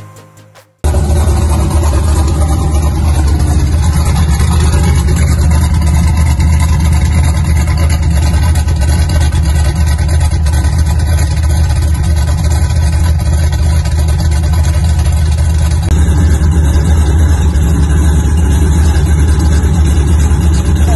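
A vehicle engine running loudly and steadily, heavy in the low end. Its sound shifts slightly about 16 seconds in.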